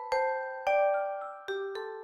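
Background music: a slow melody of bell-like struck notes, one at a time, each ringing out and fading before the next.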